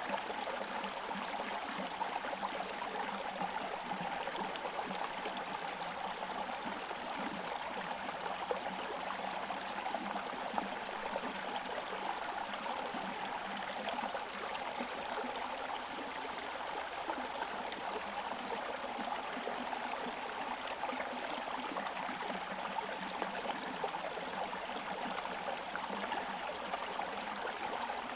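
Small forest stream running steadily, water gurgling and trickling over stones, its surface partly iced over.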